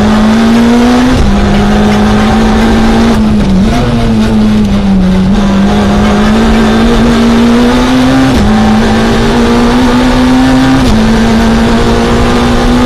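Citroën Saxo A6 rally car's engine heard from inside the cabin under full acceleration, its note climbing steadily in each gear and dropping sharply at each of three upshifts.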